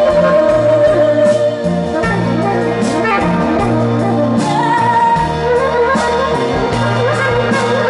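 Live indie folk band in an instrumental break: a saxophone plays a held, sliding melody line over the band's sustained low notes and occasional drum or cymbal hits.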